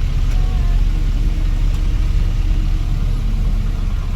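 Light diesel truck running along a rough road: a steady, heavy low rumble of engine and road noise.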